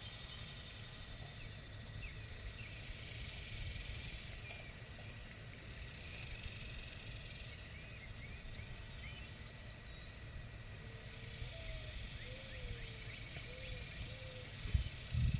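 Outdoor farm ambience: small birds chirping faintly over a low rumble, with a few short calls in a lower voice about three-quarters of the way through and a couple of low thumps at the very end.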